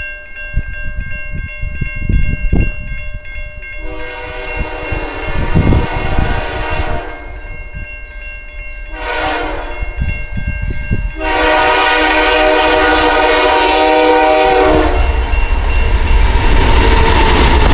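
Air horn of a BNSF GE Dash 9 diesel locomotive leading an intermodal train: faint at first, then two long blasts, the second starting about 11 seconds in. From about 15 seconds in, the locomotive and train go by with a loud, heavy rumble.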